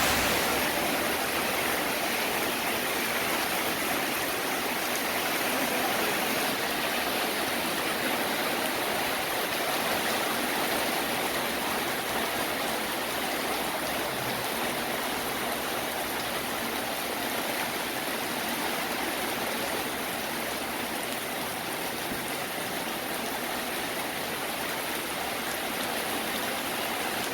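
Heavy rain pouring down, a steady dense hiss of water.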